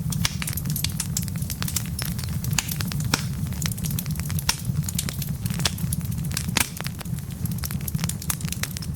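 Wood fire burning, with a steady low rumble of flame and frequent sharp crackles and pops from the burning logs, one louder snap near the end.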